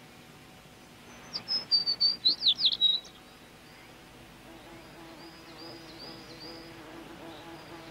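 A songbird singing: a loud run of quick whistled, sweeping notes about a second in, then fainter repeated short chirps from about five seconds on. A low steady tone runs underneath in the second half.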